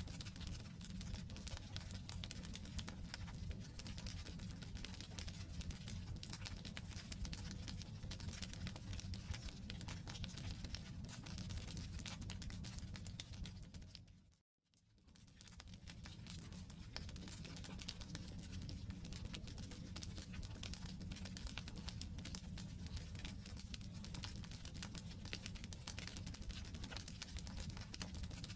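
Wood campfire crackling and popping, a dense run of small snaps over a low rumble of burning logs. About halfway through it fades out to silence for a moment, then fades back in.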